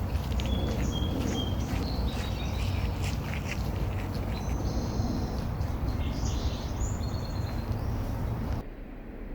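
Small birds chirping, with short whistled notes and trills over a steady outdoor rushing background. Near the end the sound cuts abruptly to a quieter background and the birds stop.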